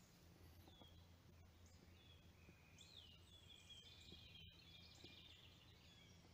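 Faint birdsong: repeated short chirps and whistles from small birds, growing busier about halfway through, over a low steady hum.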